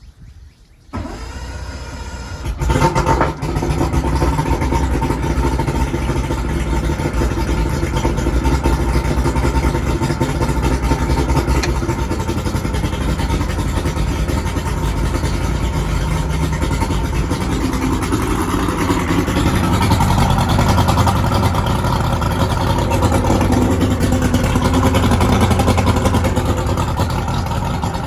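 Carbureted boat engine cold-started on a little choke and throttle: it cranks about a second in, catches within a couple of seconds, and then runs steadily. It starts readily, not showing the starting trouble that had worried the owner.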